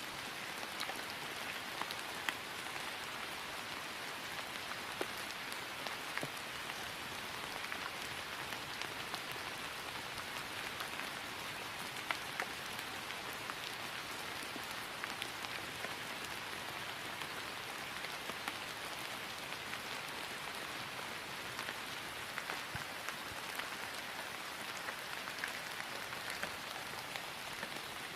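Steady rain falling on grass, an even hiss with many small drops pattering.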